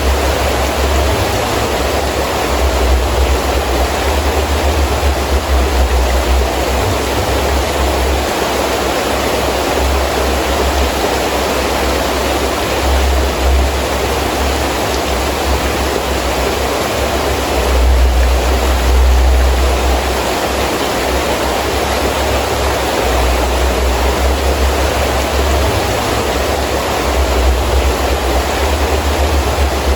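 Heavy rain falling steadily in a strong wind, with gusts that swell and fade as a low rumble, the strongest about two-thirds of the way through.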